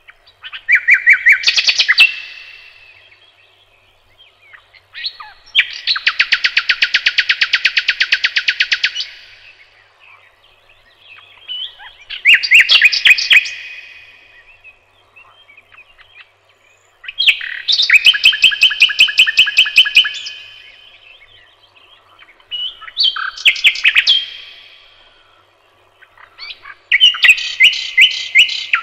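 A songbird singing loud phrases of rapid repeated notes and trills. There are six phrases, each a couple of seconds long, with a pause of a few seconds between them.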